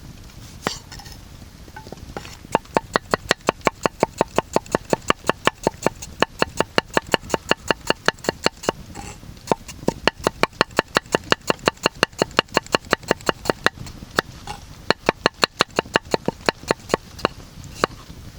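A knife chopping rapidly on a cutting board, with even strokes about five a second and two short breaks.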